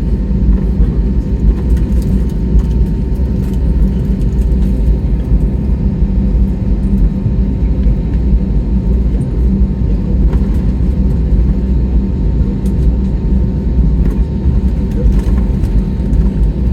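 Steady low rumble and hum inside an airliner cabin as it taxis, engines and cabin air running, with a few faint clicks.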